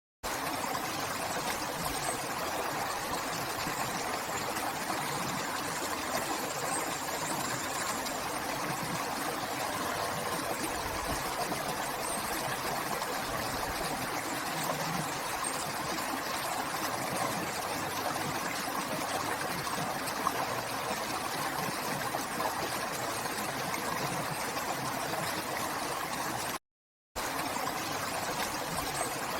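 River water flowing with a steady rushing and babbling. The sound cuts out completely for about half a second near the end, then resumes.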